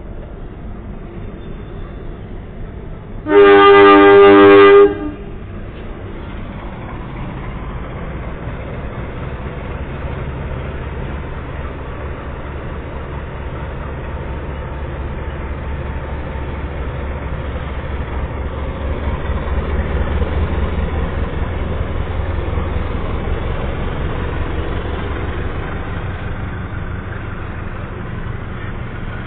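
A diesel locomotive's horn gives one loud blast of about a second and a half, a few seconds in, followed by the steady low rumble of the locomotive and train, which swells in the middle and eases off near the end.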